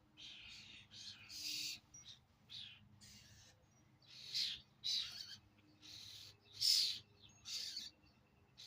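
Birds giving repeated harsh, raspy calls, each under half a second long, about one a second.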